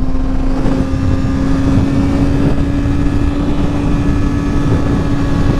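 Honda CBR sport bike's engine running at a steady speed while riding, one held even note, under heavy wind rush on the helmet microphone.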